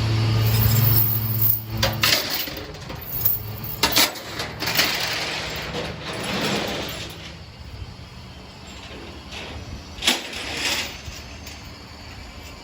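A vehicle engine running steadily, shut off about two seconds in, followed by scattered metallic clanks and knocks.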